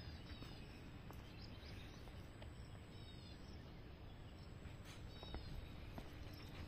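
Quiet outdoor ambience with a few short, faint bird chirps spread through it.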